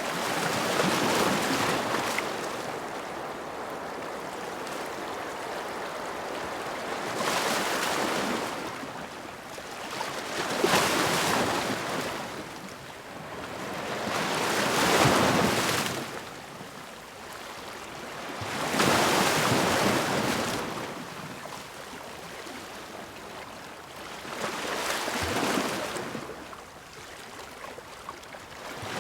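Ocean waves breaking and washing onto a shore, each surge swelling and fading, about six in a row.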